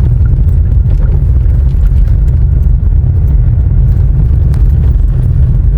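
Loud, steady low rumble of a moving vehicle's road and wind noise.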